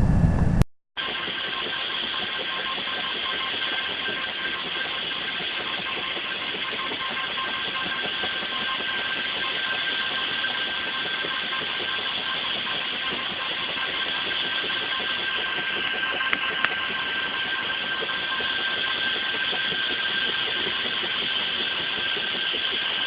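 Helicopter running on the ground: a steady turbine rush with a faint constant whine, starting after a brief silence about a second in.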